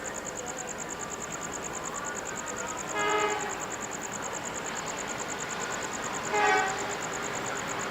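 Diesel train running on the rails, its horn giving two short blasts about three seconds apart.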